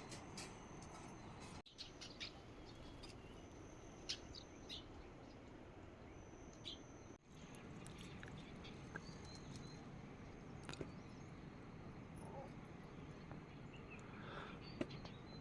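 Faint steady hiss of rain with scattered short bird chirps over it, and a thin high steady tone that comes and goes. The sound drops out briefly twice.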